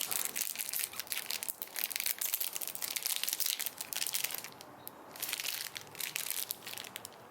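Plastic snack wrapper crinkling and crackling as it is handled and opened, in two spells with a short pause about four and a half seconds in.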